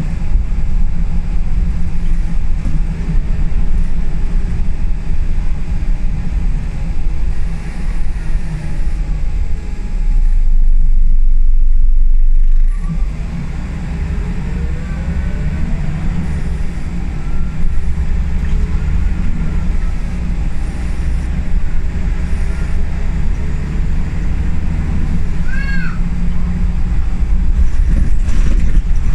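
Inside a Scania L94UB single-deck bus on the move: diesel engine and road rumble run throughout, with the engine's pitch rising and falling as the bus pulls away and changes gear. For a couple of seconds partway through there is only a deeper, louder rumble. Near the end there is a short high squeal.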